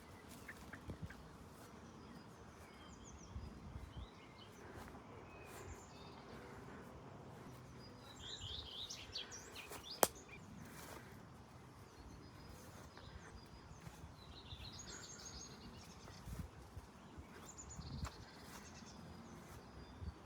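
Small birds chirping and singing in bursts over a faint outdoor background, busiest around the middle and again a little later. A single sharp click about halfway through stands out above it.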